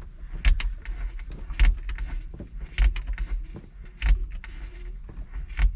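Engine primer being pumped in a Piper Cherokee 140 cockpit before a start: five or so knocks with a low thud, about one every second and a bit, with faint handling rustle between strokes.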